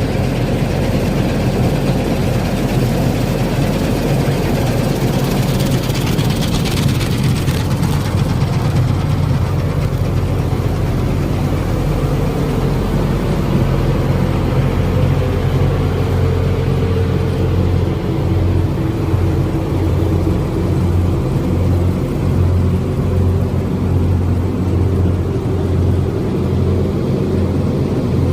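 Heavy farm machine's engine running steadily with a deep, even hum, with a stretch of added hiss about six to eight seconds in.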